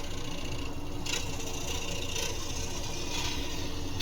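Scroll saw running steadily, its blade mostly not cutting, with a brief scrape of the blade in wood about a second in.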